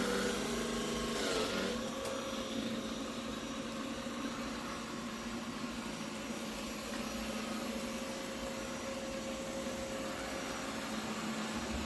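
Ecovacs Deebot X2 Omni robot vacuum running: a steady motor and fan hum with a constant whirring tone.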